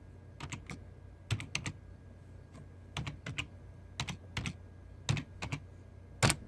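Typing on a computer keyboard: key clicks in short irregular bursts of three or four, with one louder key strike near the end.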